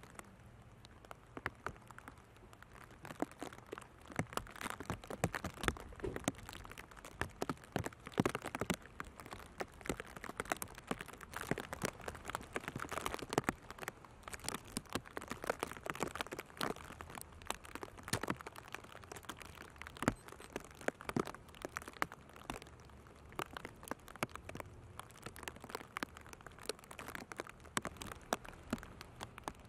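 Raindrops tapping close to the microphone in an irregular patter, heavier through the middle stretch and thinner toward the end.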